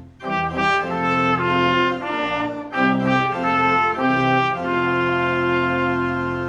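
Instrumental church music: a brass-toned melody of held notes over sustained chords, moving from note to note every half second or so.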